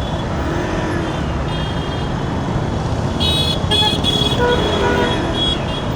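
Busy city traffic heard from a moving motorcycle, under a steady low rumble of engine and wind. Several vehicle horns honk about three seconds in, the loudest sounds here, and more follow for a couple of seconds.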